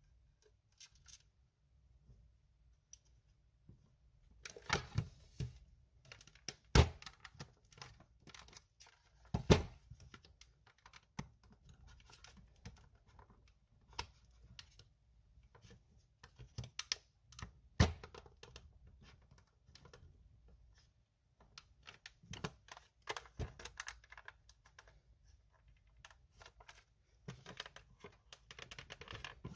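Irregular clicks, knocks and scraping from hands working on a cordless stick vacuum cleaner's parts during disassembly. Three knocks stand out as the loudest, about seven, nine and eighteen seconds in.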